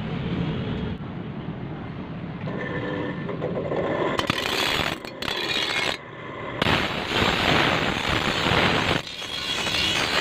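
Harsh, continuous metalworking noise on a toka machine's chopper blade, starting about four seconds in and breaking off briefly twice.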